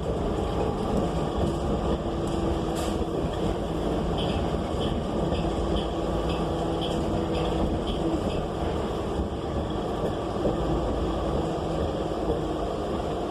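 Cabin sound of a 2018 New Flyer XN35 bus under way, its Cummins Westport L9N natural-gas engine loud with the HVAC off: a steady engine and road rumble with an even hum-like tone through it. A light, regular ticking comes and goes in the middle.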